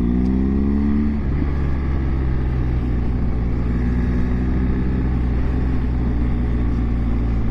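Motorcycle engine pulling away, its pitch rising over the first second or so, then running steadily at a constant speed over a steady low rumble.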